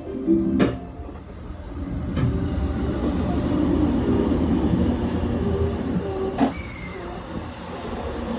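E235 series electric train running on the line: steady wheel-on-rail rumble with a faint motor hum, swelling a little in the middle. Two sharp clicks come near the start and again near the end.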